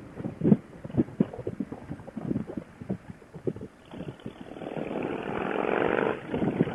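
Wind buffeting a motorcycle rider's helmet-intercom microphone. About two-thirds of the way in, a motorcycle engine rises steadily in loudness and pitch under acceleration, then drops off.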